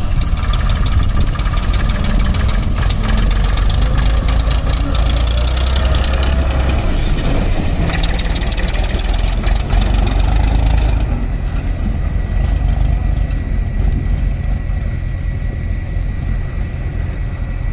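Heavy diesel engine running steadily, its sound going duller about two-thirds of the way through, leaving a thin steady whine over the low engine note.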